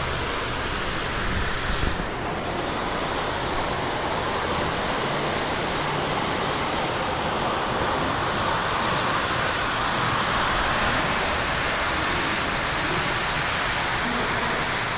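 Steady rushing noise with no distinct events, its high hiss dropping away about two seconds in.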